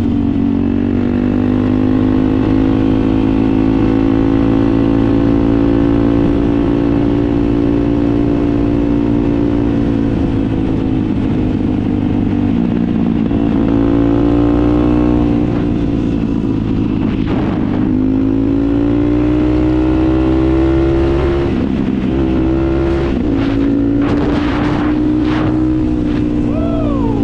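Small single-cylinder engine, typical of a mini bike or dirt bike, running steadily with its pitch dipping and rising slowly as the throttle changes. A few short knocks come in the second half.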